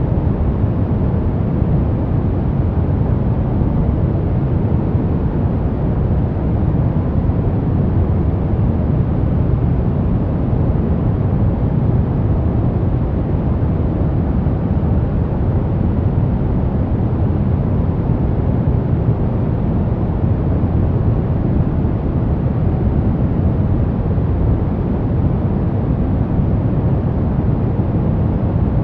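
Steady, unchanging synthetic noise for baby sleep, weighted toward the low end, so it sounds like a deep rushing hiss rather than bright white noise.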